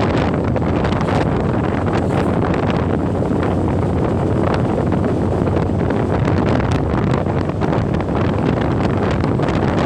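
Wind rushing over the microphone on a moving motorbike: a loud, steady rush with frequent crackles.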